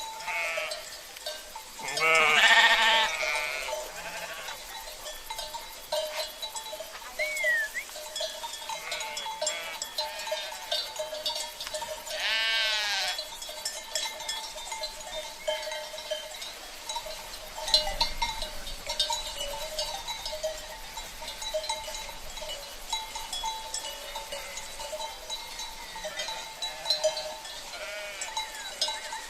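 Sheep bleating, with two loud bleats about two seconds in and about twelve seconds in and softer calls between. Livestock bells clink and ring steadily throughout.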